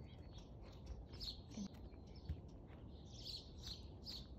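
Faint bird chirping: short, high chirps repeating every second or so over a low, steady background of outdoor noise.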